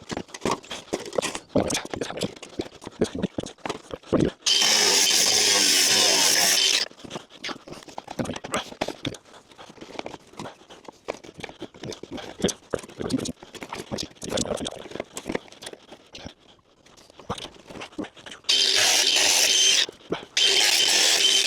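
A handheld power tool cutting, run in three steady bursts, one of about two seconds a few seconds in and two shorter ones near the end. Between the bursts there are scrapes and knocks of material being handled.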